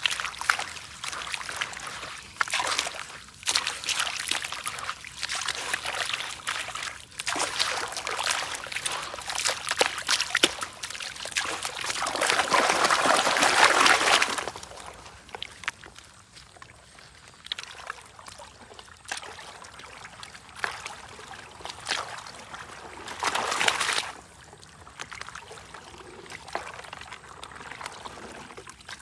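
Water sloshing, trickling and pouring as river sand is washed in a gold pan, with small gritty clicks. It swells into a louder pour for a couple of seconds about twelve seconds in, and again briefly near the end.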